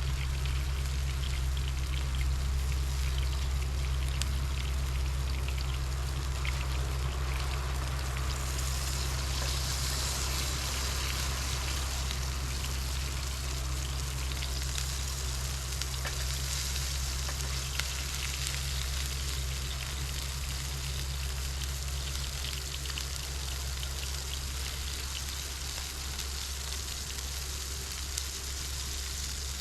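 Food frying in a pan, a steady sizzle with scattered crackles that grows brighter about a quarter of the way in, over a steady low hum.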